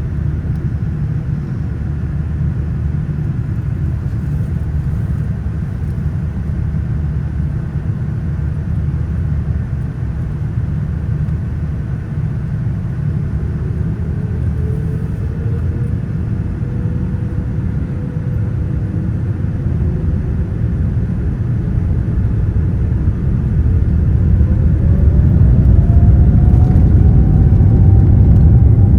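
Boeing 787-9 jet engines: a steady low rumble, with a whine that rises in pitch from about halfway and grows louder near the end as thrust is added.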